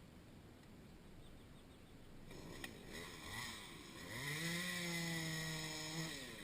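Chainsaw engine blipped, then revved up to high speed and held there for about two seconds before the throttle is let off.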